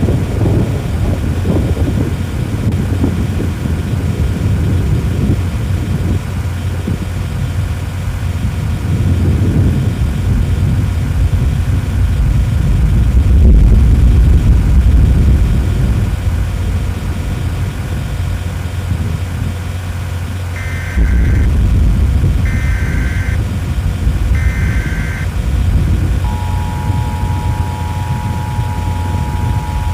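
Vehicle running with a steady low road and engine rumble. About 21 seconds in, three short warbling data bursts of an Emergency Alert System header come through. From about 26 seconds a steady two-tone EAS attention signal follows, the tone that announces an emergency warning broadcast.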